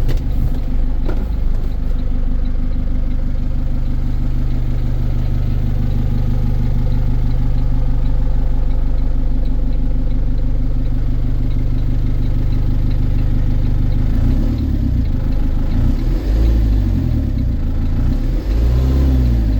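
Diesel engine of a 2017 IVECO Eurocargo 80E12 light truck idling steadily. In the last few seconds its tone wavers up and down.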